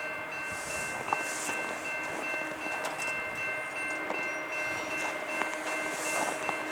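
Freight train running past with a steady rumble, under a few steady high-pitched tones held throughout.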